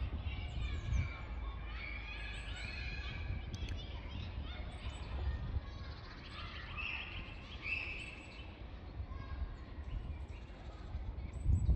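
Outdoor ambience of birds chirping and calling, with short high chirps scattered through and a brighter run of calls past the middle, over a steady low rumble.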